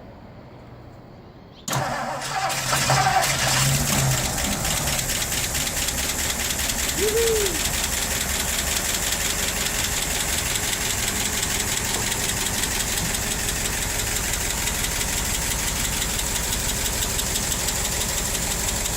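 1960 Ford Thunderbird's V8 engine catching suddenly about two seconds in after sitting, then running on steadily with an even, rapid beat.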